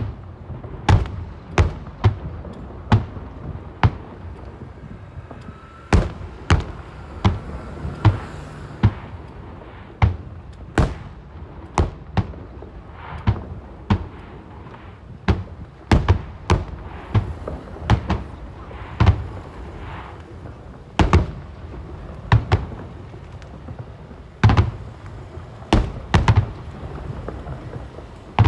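Aerial fireworks shells bursting in a steady barrage. Sharp booms come about one or two a second, with a low rumble between them.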